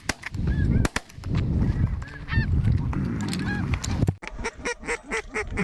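Snow geese honking over a field, many high, yelping calls overlapping, with two sharp shotgun blasts about a second apart right at the start. From about four seconds the honking turns into a rapid, evenly repeated run of calls.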